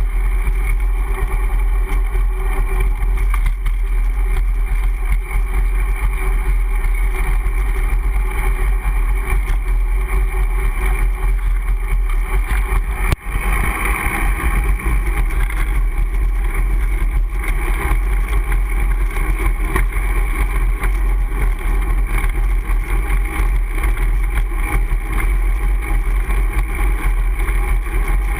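Steady low rumble of wind buffeting the microphone of a GoPro HD Hero camera mounted on a moving bicycle, with road noise underneath. There is a brief click and momentary dropout about halfway through.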